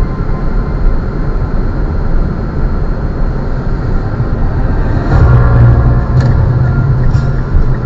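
Car on the move: steady engine and road rumble picked up by a dashcam, growing louder about five seconds in.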